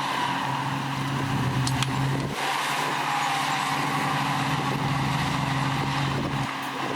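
Heavy diesel engine of earthmoving equipment running steadily, with a brief break in its note a little over two seconds in.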